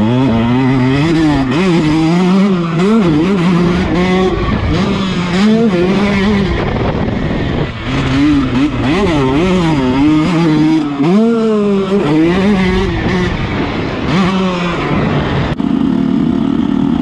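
2019 KTM 150 SX two-stroke single-cylinder engine being ridden hard, revving up and falling back over and over as the throttle is worked and gears change, its pitch climbing and dropping every second or so.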